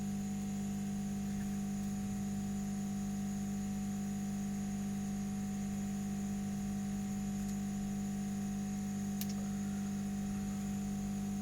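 Steady electrical hum with a faint high whine, with two faint clicks in the second half.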